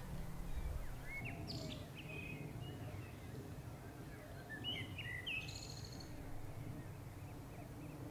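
Small birds singing: two short phrases of quick chirps and whistles, about a second and a half in and again about five seconds in, over a steady low background rumble.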